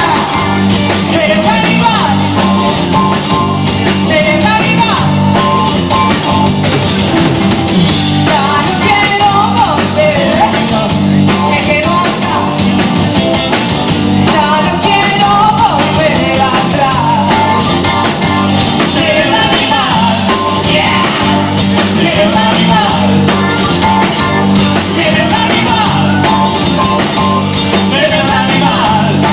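Live rock band playing with a woman singing lead: drum kit, electric guitar, bass and keyboards, loud and steady throughout.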